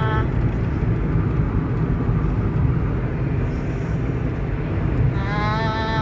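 A steady low rumble. A sustained pitched tone with many overtones stops just after the start and comes back near the end, gliding slightly upward as it enters.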